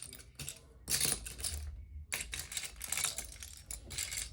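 Small plastic Lego pieces clicking and rattling as they are handled and sorted, in quick clusters of clicks with a short pause a little before the middle.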